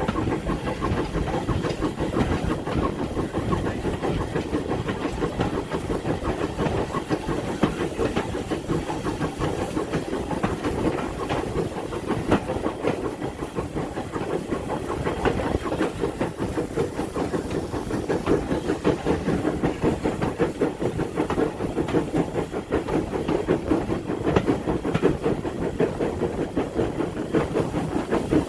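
Steam locomotive working along the line: a steady run of rapid, even exhaust beats with hissing steam.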